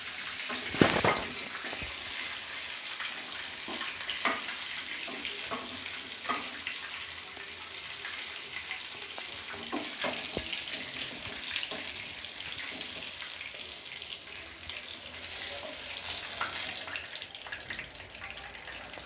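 Prawn vadas sizzling in hot coconut oil in a shallow frying pan, a steady hiss, with scattered clinks of a metal spatula against the pan and plate as they are lifted out, and one sharp knock about a second in.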